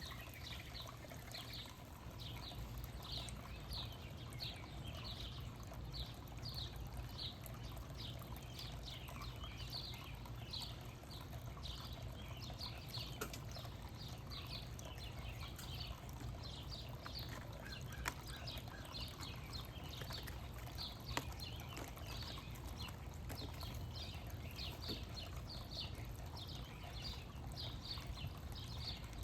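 Small birds chirping steadily: a continuous stream of short, high, downward-sweeping chirps, a few each second, over a low background rumble.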